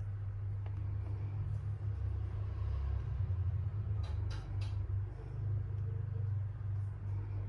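Steady low hum throughout. About four seconds in come a few brief rustling clicks, typical of packing material being handled.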